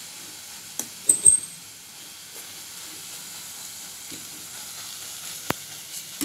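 Fenugreek leaves and gram flour sizzling steadily in oil in a pan, the gram flour cooking through in the oil. A spoon stirs and knocks against the pan a few times about a second in, and once more near the end.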